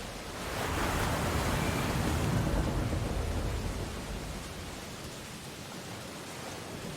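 Ocean waves breaking on a beach: a wave swells and crashes about a second in, then the surf washes back down to a steady hiss.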